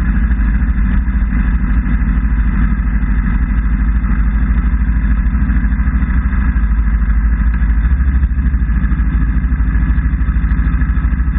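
Motorcycle engine idling steadily at low revs, close to the microphone, with an even low pulse that holds unchanged throughout.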